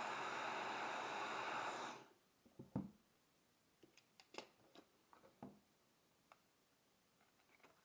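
Handheld hair dryer blowing steadily, switched off about two seconds in. Faint scattered clicks and taps follow.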